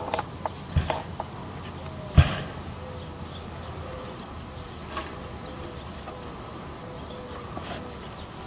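Honeybees buzzing around an open hive, one bee's hum held close for several seconds. A few sharp knocks cut through, the loudest about two seconds in, as wooden hive parts are handled.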